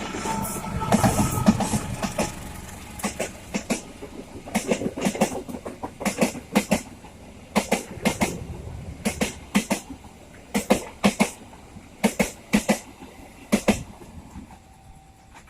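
Train passing, its wheels clacking over the rail joints: a rumble in the first couple of seconds, then sharp paired clacks in regular groups as each car's wheel sets cross, ending shortly before the end.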